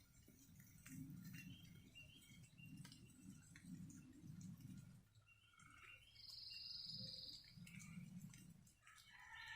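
Footsteps at a steady walking pace on rain-soaked woodland ground, a soft low thud about every 0.7 s, with scattered bird chirps and a short buzzy trill about six seconds in.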